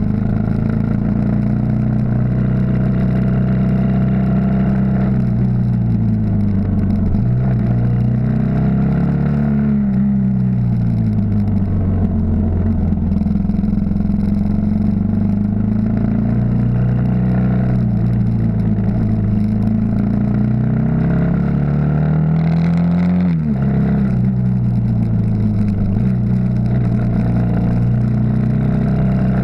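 Yamaha XT 600 single-cylinder four-stroke engine running under way, heard from the bike itself. Its note climbs and falls repeatedly as the throttle opens and closes through the gears, with a sudden drop about three quarters of the way through.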